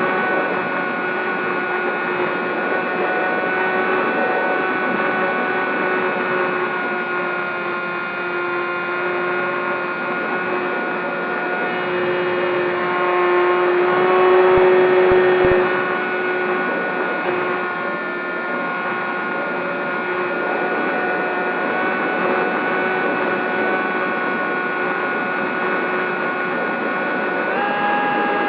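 Electric brushless motor and propeller of a Zohd Talon GT Rebel RC plane in flight, a steady whine that drifts a little in pitch and steps up just before the end as the throttle is raised.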